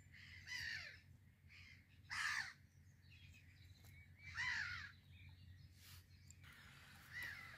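Faint bird calls: four short, harsh calls about two seconds apart, each falling slightly in pitch.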